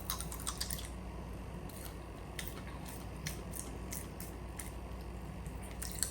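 Pop Rocks popping candy crackling in the mouth: faint, scattered sharp pops and crackles at irregular intervals.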